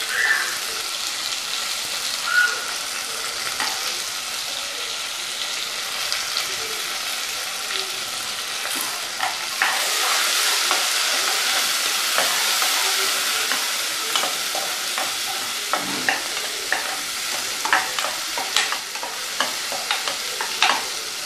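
Small onions and garlic cloves sizzling in hot oil in an aluminium pressure cooker, a steady frying hiss. From about halfway through, a steel spatula stirring them scrapes and clicks against the pot again and again.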